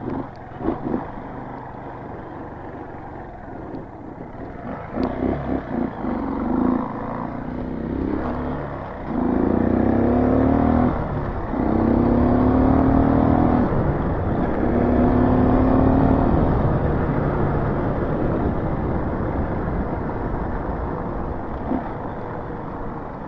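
Street-legal dirt bike's engine running at low speed over a rough trail, then revving up in three rising pulls about halfway through, each one dropping back sharply.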